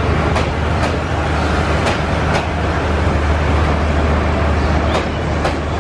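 Bangladesh Railway passenger train's carriages rolling slowly past close by, a steady low rumble with the wheels clicking over rail joints in pairs a few times.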